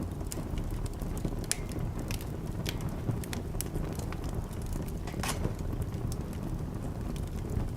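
Wood fire crackling in a fireplace: irregular sharp pops and snaps over a low steady rumble, with one louder pop about five seconds in.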